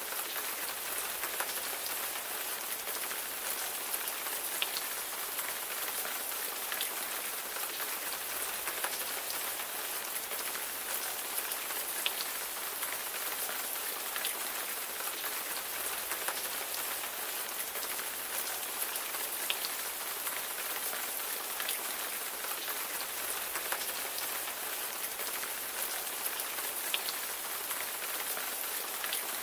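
Steady rain falling on a surface, an even hiss with scattered individual raindrops ticking through it.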